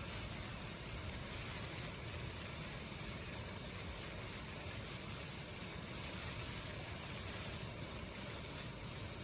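Steady rushing blizzard wind, with a low flickering rumble of gusts under an even hiss.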